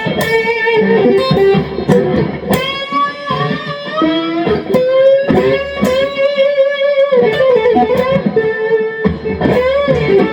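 Electric guitar (a Fender Stratocaster with its neck and bridge pickups switched on together, Telecaster-style) played unaccompanied in single-note lead lines, with picked notes, string bends and vibrato. The tone is a little less crisp and biting than a real Telecaster's.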